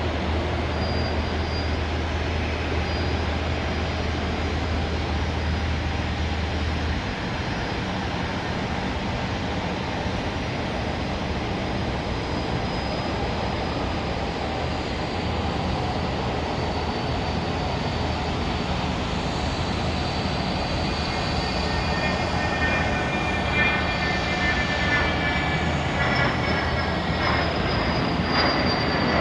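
Twin Pratt & Whitney JT15D turbofans of a Cessna 560 Citation V jet on its takeoff run: a steady jet rush with a high fan whine. The whine drifts slightly lower and several more whining tones come in over the last seven seconds as it grows a little louder.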